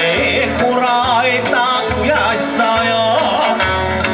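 Kawachi ondo bon-dance music: a singer's ornamented vocal line with wavering pitch over a steady low drum beat and accompaniment.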